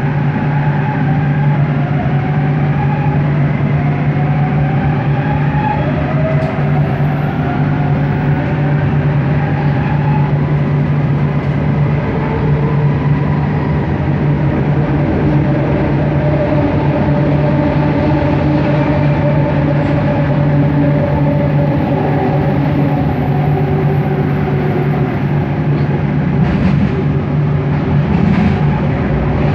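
Bombardier Innovia ART 200 metro train running, heard from inside the car: a steady low hum with whining linear-induction-motor tones that glide up and down in pitch as speed changes.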